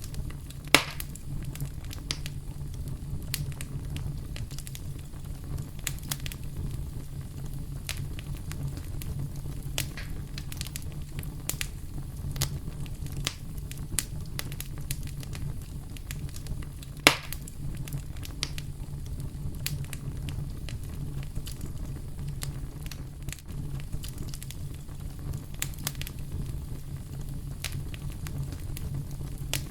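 Campfire crackling, with scattered small snaps and two sharp louder pops, about a second in and about halfway through, over a steady low rumble of brown noise.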